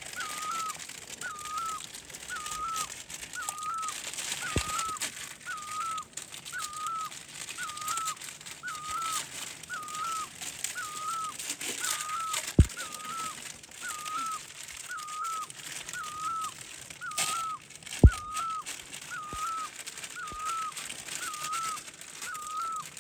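A bird repeats a short, hooked whistled call about once a second, steady and unbroken, over a constant hiss. A few sudden knocks come through, the loudest about halfway through and another about 18 seconds in.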